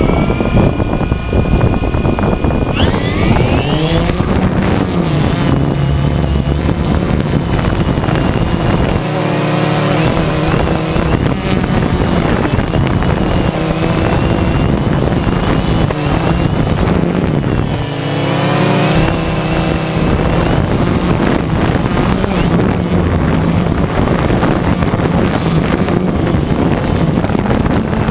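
DJI Phantom 2 quadcopter's motors and propellers spinning up with a rising whine, then a steady buzzing whine in flight. The pitch sweeps up and down twice as the throttle changes, with wind on the microphone.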